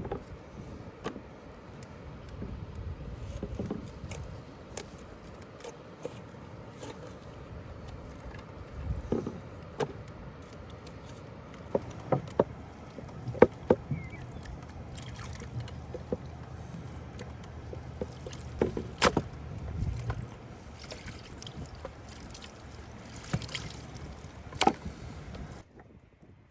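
Food-preparation handling noises: sharp knocks and clicks at irregular intervals over a steady low background, which drops away suddenly near the end.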